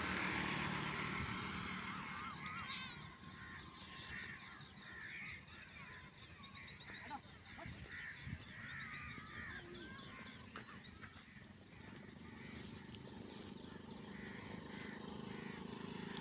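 Birds calling in a busy run of short repeated calls, roughly two a second, over a steady low rumble.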